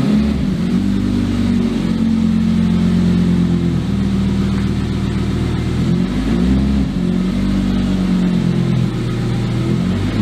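V10 engine running with its revs held, then shifted up and down, with a quick rise and fall in pitch about six seconds in and again near the end.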